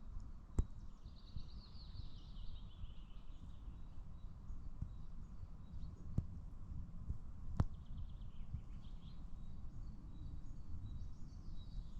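Songbirds singing: quick trilled phrases that fall in pitch, one a second in and another near the end, over a low steady rumble of wind on the microphone. A few sharp clicks come through in between.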